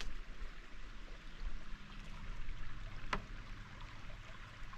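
Small mountain creek running over rocks, a steady trickling rush, with a single sharp click about three seconds in.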